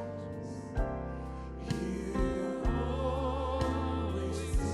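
Slow worship music: sustained chords over steady bass notes, with a voice singing long, wavering held notes and a soft beat about once a second.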